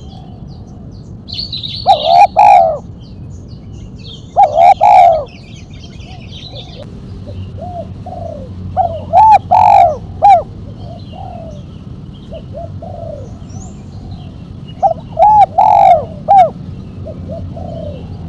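Spotted dove cooing loudly and close to the microphone: four phrases a few seconds apart, each a quick run of cooing notes, with softer single coos between. Faint chirps of small birds sound behind it.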